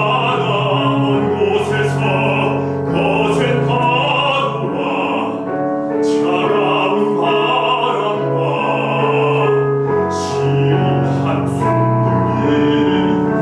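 Operatic-style classical singing with piano accompaniment, the voice holding long notes one after another.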